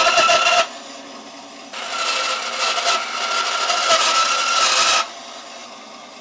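Power saw cutting through an aluminum plate with a steady high-pitched screech. The first cut stops abruptly about half a second in, and a second cut runs from about two seconds in until near five seconds, followed by quieter noise.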